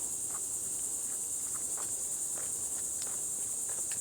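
A steady, high-pitched chorus of insects, with irregular footsteps along the trail a few times a second underneath.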